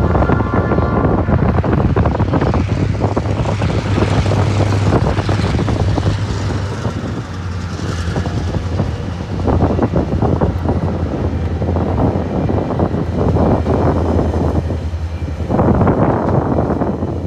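Coal train crossing a road level crossing: the diesel locomotives' engines drone steadily as they pass. The loaded coal hopper wagons follow, their wheels rumbling and clattering over the rails.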